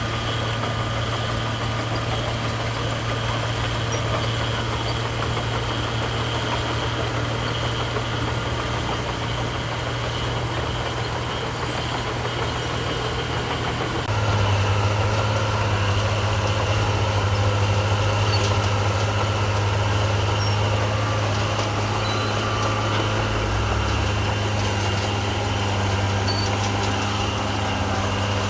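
Heavy diesel engine of earthmoving machinery running steadily with a low hum; about halfway through it gets louder and its note thickens.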